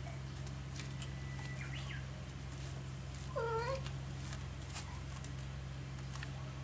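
A kitten mewing: one short, high, pitched mew about three and a half seconds in, with a fainter squeak about a second and a half earlier. A steady low hum runs underneath.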